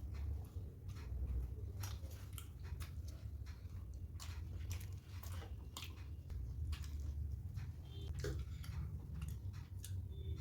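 Close-miked chewing of soft poori with potato and chickpea curry: irregular wet mouth clicks and smacks over a low rumble.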